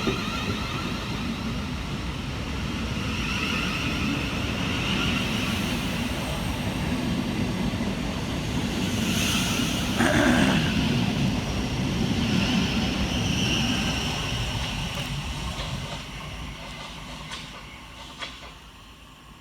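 Class 700 electric multiple unit moving through the station: wheels rumbling on the rails under a whine from the traction equipment. There is a brief louder burst about halfway, and the sound fades away over the last few seconds.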